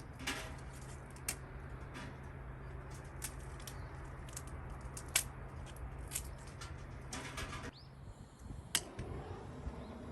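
Wood campfire crackling, with irregular sharp pops and snaps, over a steady low hum that stops about eight seconds in.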